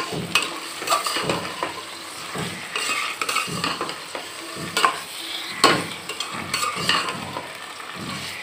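Raw chicken pieces and browned onions frying in hot oil in a metal pot, with a steady sizzle, while a metal slotted spoon stirs them and repeatedly scrapes and knocks against the pot; the loudest knocks come about halfway through and a little later.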